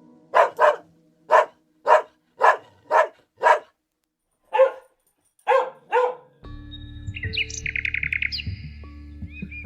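A dog barking about ten times in short, evenly spaced barks, stopping about six seconds in. Birds then chirp over a low steady background, with a quick trill.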